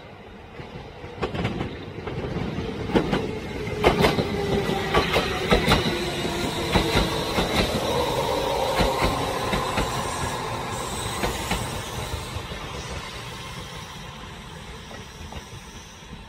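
Train wheels clacking over rail joints in a quick run of clicks, with a rumble and a whining, squealing tone; the sound grows louder over the first few seconds and then fades away.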